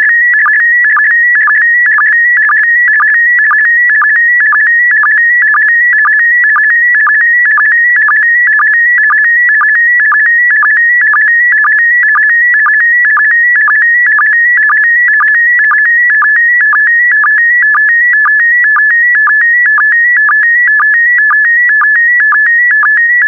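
PD120 slow-scan TV (SSTV) image signal: a loud, steady electronic tone near the top of its range, broken by short lower-pitched sync pulses about twice a second, each one marking the start of a new pair of scan lines.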